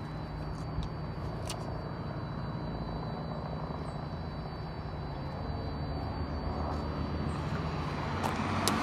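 A road vehicle's engine running steadily with a low hum, and traffic noise building up near the end.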